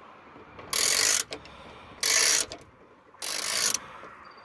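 Hand ratchet with a T30 Torx bit backing out a fender screw: three short bursts of rapid pawl clicking, each about half a second long and roughly a second apart, as the handle is swung back between turns.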